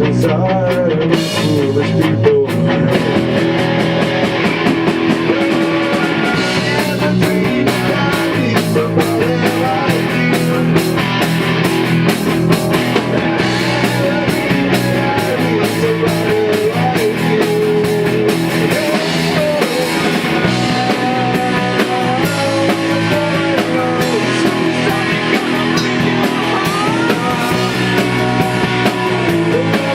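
Rock band playing a song with electric guitar and drum kit, loud and continuous.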